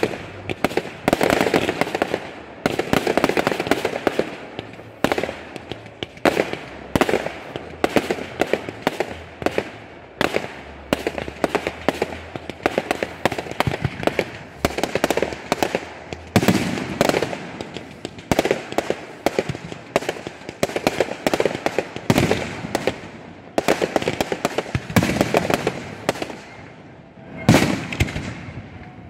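Fireworks display bursting close overhead: a dense, continuous run of bangs and crackling, shell after shell with hardly a gap, some blasts heavier than the rest.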